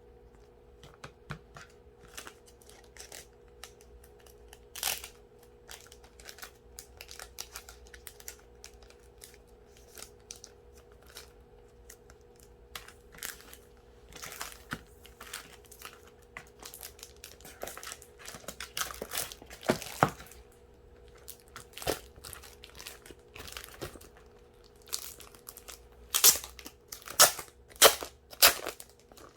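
Packaging being unwrapped by hand: scattered crinkling and tearing of wrapping, with a run of louder crackles near the end.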